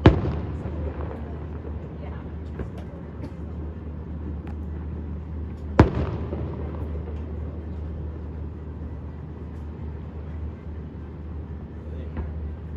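Two fireworks shell bursts, one at the very start and one about six seconds in, each a sharp boom followed by a rolling echo, with a few faint pops between.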